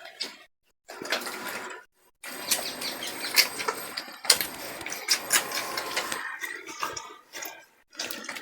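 Puppies nursing from their mother: clicky suckling and squirming noise, in short bursts at first, then a denser run through the middle.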